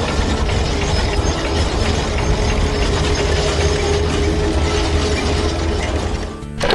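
Excavator sound effects: a steady low engine rumble under a dense mechanical rattle, like gears and ratcheting. It dips briefly near the end, then a clicking rattle starts.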